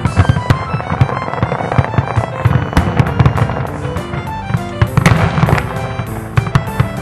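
Fireworks shells bursting in quick succession, heard from about half a mile away, with a dense cluster of bangs about five seconds in. A ragtime tune plays along with them.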